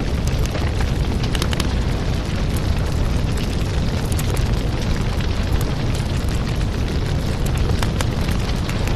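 Crackling fireplace: a steady low rumble of flames with scattered sharp crackles and pops throughout.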